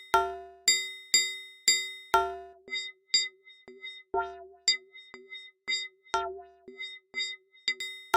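Electronic metronome ticking about twice a second, each tick a short bell-like ding that dies away quickly, with a deeper accented beat every fourth tick. From about two and a half seconds in, the ticks turn quieter and scatter at uneven, random intervals between the accented beats, before the steady pulse returns near the end.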